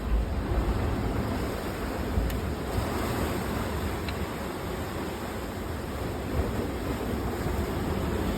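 Sea waves and wind: a steady rushing of surf with low gusts of wind rumbling across the microphone, strongest near the start and about two seconds in.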